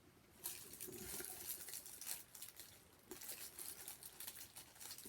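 Close crinkling and crackling of a sandwich and its wrapper being handled and eaten, starting about half a second in as rapid irregular clicks and crackles.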